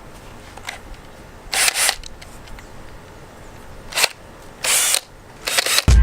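Power drill driving screws in short bursts, about five times, with pauses between. Music starts right at the end.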